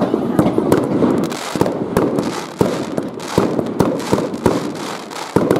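Fireworks going off in quick succession: many sharp bangs and pops, several a second and irregularly spaced, over a continuous crackling hiss.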